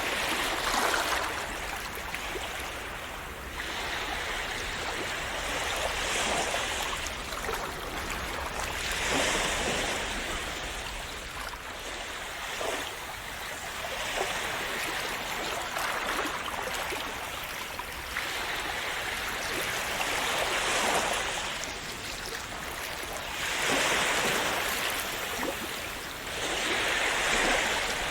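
Calm sea waves washing in and splashing, a rush of water that swells and fades every few seconds.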